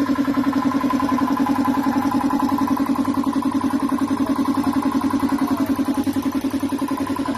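A small motor running steadily with a fast, even pulse of about ten beats a second and a constant low hum.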